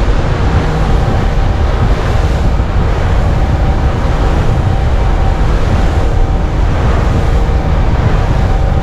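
Boat running under way at speed, its engine humming steadily under heavy wind rush on the microphone and water noise from the hull.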